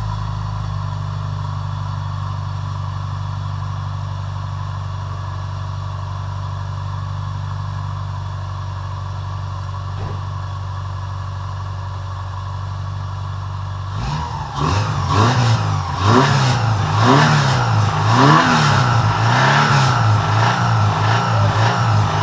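Subaru Forester's EJ25 2.5-litre flat-four engine idling steadily just after starting, then, from about two-thirds of the way through, revved up and down repeatedly, about once a second. The owner says this worn-out engine clacks and knocks and believes it is finished.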